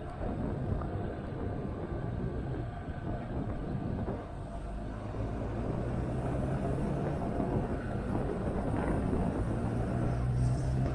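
Motorcycle engine running under way with wind rushing over the microphone; the engine note becomes steadier and a little louder about halfway through.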